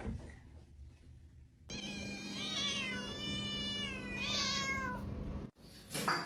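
Domestic cat meowing: a long, wavering meow about two seconds in, then a shorter meow that falls in pitch about four seconds in.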